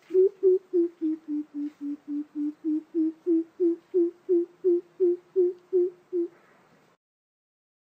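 Coucal calling: a long run of deep hoots, about three a second, dipping slightly in pitch and then rising again, stopping about six seconds in.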